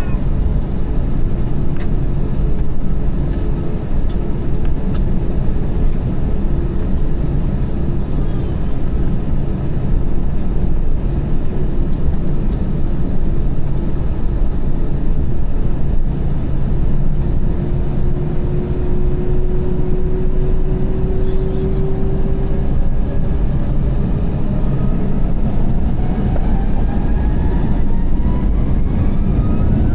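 Cabin noise of an Airbus A321-231 with IAE V2500 engines: a steady low rumble, then several rising whines starting near the end as the engines spool up for the takeoff roll.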